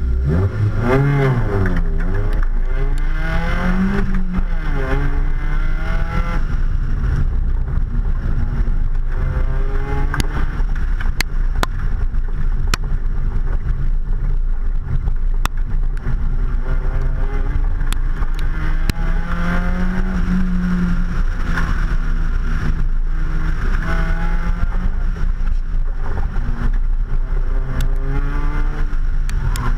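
Mazda Miata's four-cylinder engine launching hard from a standstill, then revving up and down repeatedly as the car is driven through an autocross cone course, heard from outside the car by the driver's door.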